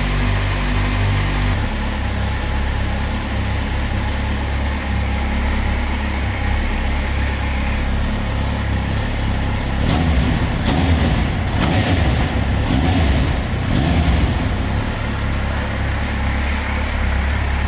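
Kawasaki Z750's inline-four engine idling through its stock exhaust, with several short throttle blips a little past the middle.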